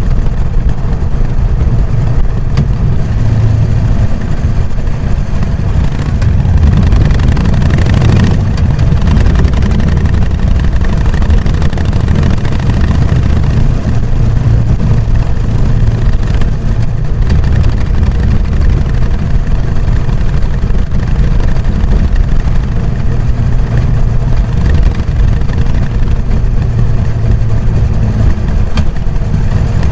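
Harley-Davidson Sportster XL883N Iron's air-cooled V-twin with its stock exhaust, running steadily while being ridden, with a low, pulsing engine note.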